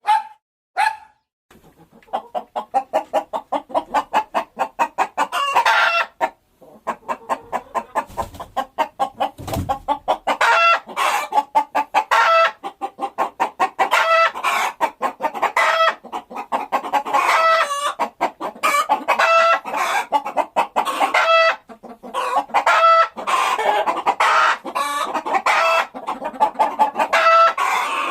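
Chickens clucking and cackling in a dense, rapid run of calls, with a couple of short dog barks at the very start.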